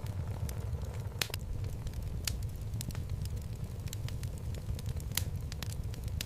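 Wood logs burning in a home fireplace: a steady low rumble of flame with scattered sharp crackles and pops from the wood, the loudest about a second in, at two seconds and past five seconds.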